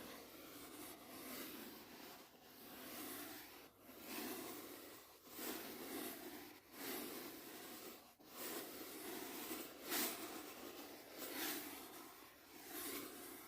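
Soft brush strokes swishing close to the microphone, about ten slow sweeps, each lasting around a second.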